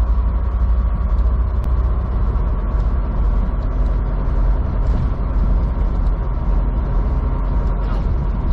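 Steady low drone of a semi truck's diesel engine and road noise, heard from inside the cab while the truck drives along at a steady speed.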